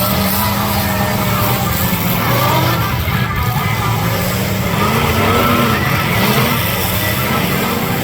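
Demolition derby cars' engines running and revving, their pitch rising and falling, over a steady din.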